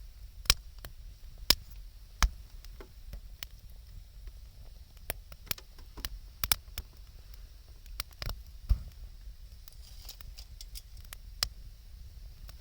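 Wood campfire crackling: irregular sharp pops and snaps, a few of them much louder, over a soft steady hiss.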